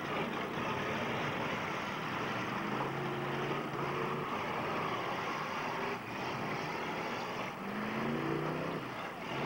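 Demolition derby cars' engines running and revving together in a dense, continuous noise, with one engine revving up in pitch near the end.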